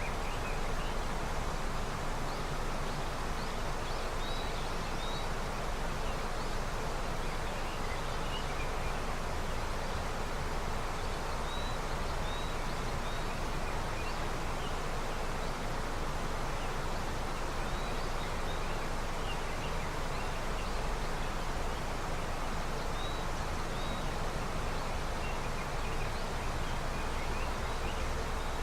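Snowmelt river flowing, a steady rushing of water. A few faint, short high chirps come and go over it, sometimes in pairs.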